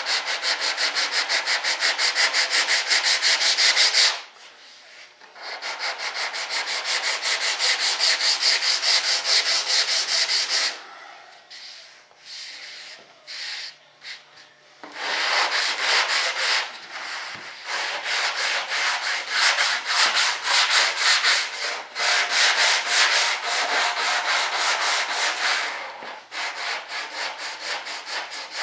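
Hand sanding with sandpaper: rapid, even back-and-forth rubbing strokes in long runs, with a brief pause about four seconds in and a stretch of only occasional scrapes in the middle, as a model part is sanded flat.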